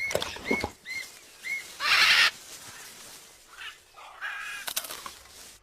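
Parrot calling: four short chirps about half a second apart, then a loud harsh screech about two seconds in, and a shorter call near the end.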